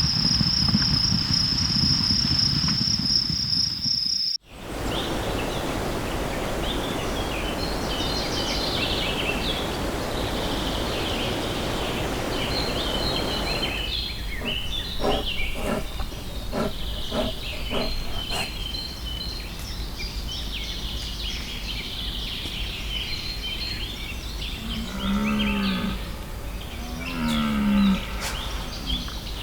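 A steady high insect trill that cuts off abruptly about four seconds in. Then birds chirp over a rushing background, with a run of clicks in the middle, and near the end a large animal gives two short, low, lowing calls a couple of seconds apart.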